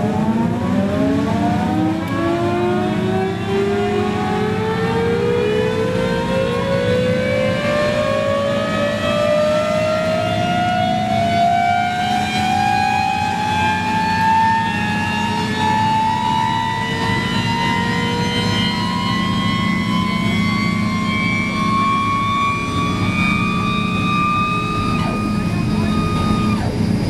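Boeing 929 jetfoil's gas turbine heard from the passenger cabin, its whine climbing steadily in pitch as the engine spools up, over a steady low hum. The whine breaks off suddenly shortly before the end.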